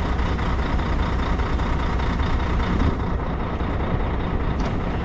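Truck engine running steadily: a low hum under an even steady noise.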